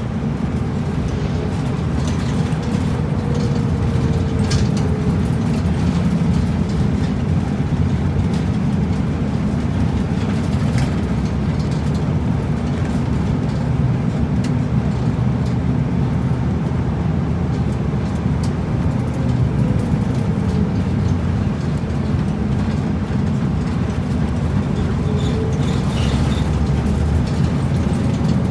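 Route bus driving, heard from inside: steady engine and road rumble, with a faint whine that rises and falls in pitch a few times.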